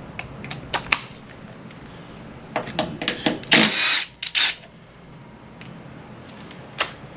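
Metal tool clicks and clinks from a wrench working the 12 mm mounting bolt of a motorcycle's front brake caliper loose, with two louder rasping bursts a little past the middle.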